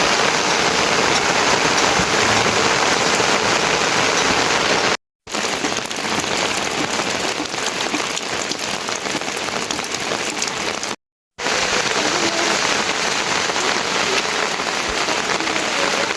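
Heavy rain falling steadily. It cuts out abruptly for a moment twice, about five and eleven seconds in, and each time resumes at once.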